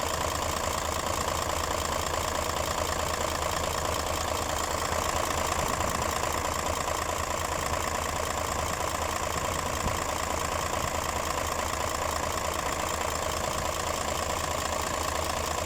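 Mercedes-Benz Actros 2040 truck's diesel engine idling steadily.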